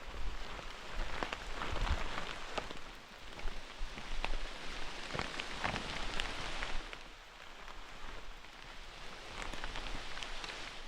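Rain falling, with many separate drops ticking close by over a steady hiss; it eases a little about seven seconds in.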